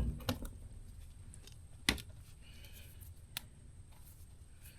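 Handling noises from unpacking a new grease-gun cartridge tube: a few separate sharp clicks and knocks, the loudest about two seconds in, with a faint rustle in between.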